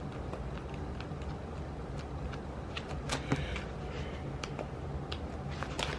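Light ticks and rustles of paper and sticker sheets being handled, a handful of short faint clicks, over a steady low hum.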